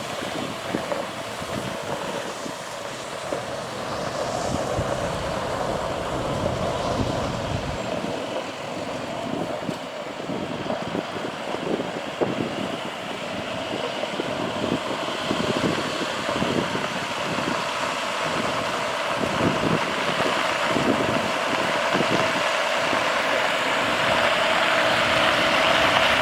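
International 4300 water truck's MaxxForce DT diesel running as the truck moves in first gear, with the PTO-driven spray pump running and water hissing out of the spray heads. The noise grows somewhat louder near the end.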